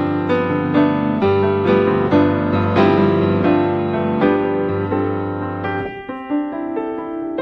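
Gentle background piano music, a run of struck notes over held low notes; the low notes drop out about six seconds in, leaving a lighter, higher line.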